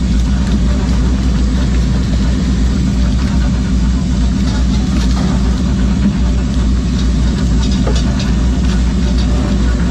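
Fishing boat's engine running at a steady drone, with a few short clicks and knocks over it in the second half.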